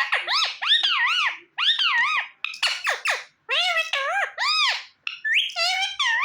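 Indian ringneck parakeet giving a quick run of high, arching calls, each note rising and then falling, in several bursts with short pauses between them.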